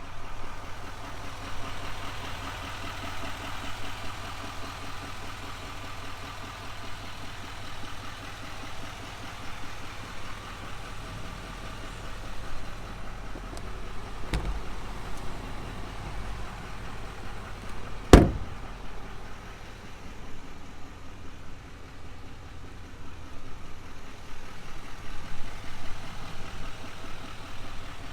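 A truck engine idling steadily, with two sharp knocks: a light one about 14 seconds in and a louder one about 18 seconds in.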